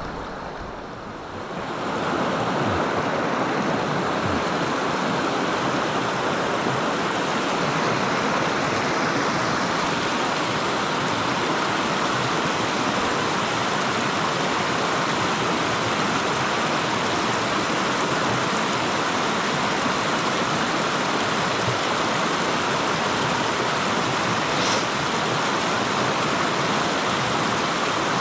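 Mountain stream rushing over rocks: a steady, even rush of water that grows louder about two seconds in and then holds.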